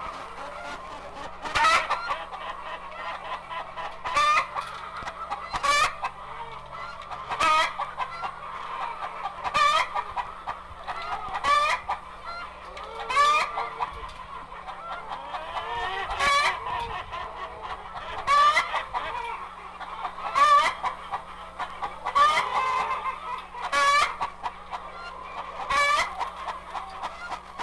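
A flock of chickens clucking steadily, with a sharp, loud call breaking out about every two seconds.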